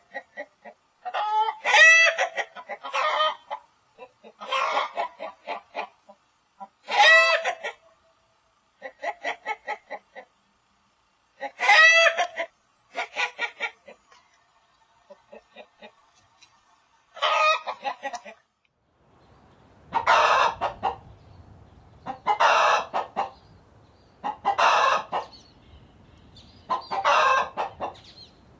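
Chickens clucking in repeated bursts of rapid calls separated by short gaps, with rooster crowing among them. About two-thirds of the way through it changes to a different, noisier recording of chicken calls.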